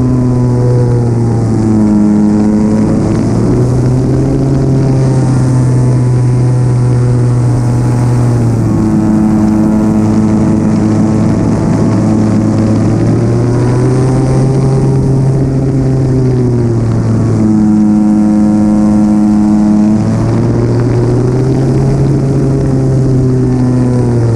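Model airplane's engine running close to the microphone, its pitch dropping and rising again several times as the throttle is eased back and opened up in flight, with a rush of air noise.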